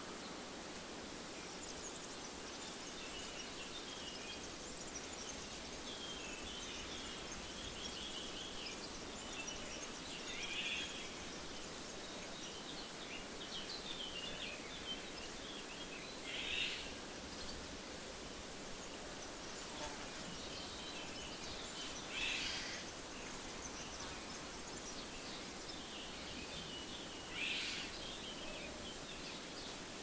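Birds chirping and trilling over a steady background hiss, with a short, louder burst of calls about every five or six seconds.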